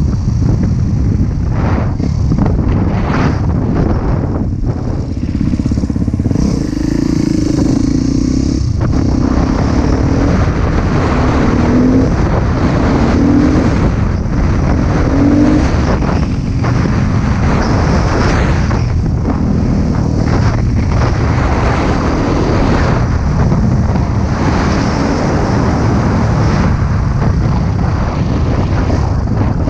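Husqvarna TC 250 two-stroke motocross bike engine running hard under way, revs rising and falling, with several quick climbs in pitch around the middle.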